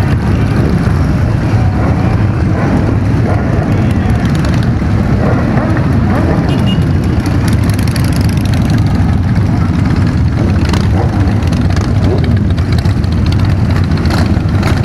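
Motorcycle running steadily on a ride, a constant low drone mixed with wind rush.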